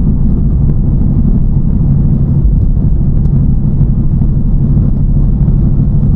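TVR Chimaera's 4.65-litre Rover V8, fitted with a race cam, running at a steady cruise: an even, deep rumble with no revving up or down.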